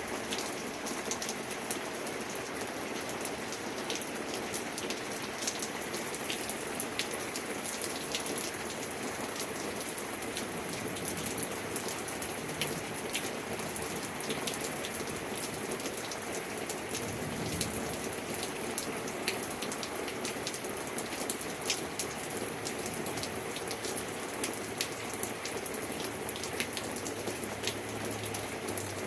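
Steady heavy rain falling, with many individual drops striking a hard surface as sharp ticks over a constant hiss.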